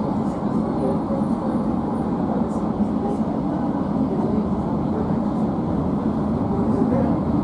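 Steady running noise heard from inside a JR 115 series 1000 subseries electric train as it rolls slowly along the platform: a low, even rumble of wheels and traction gear.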